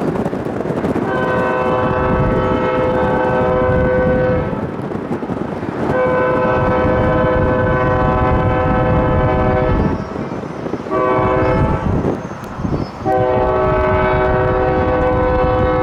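Locomotive air horn sounding the grade-crossing signal: two long blasts, a short one, then a long one, the chord of several steady notes, over the continuous low rumble of the train.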